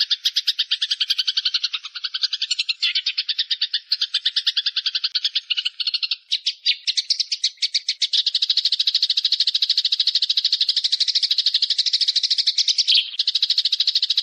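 Songbird masteran recording: a fast rattling trill of short, high chattering notes, continuous and denser and steadier from about eight seconds in.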